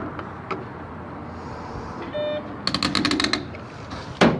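A short electronic beep, then a receipt printer chattering out a receipt in a rapid run of clicks for under a second, followed by a single sharp clack near the end.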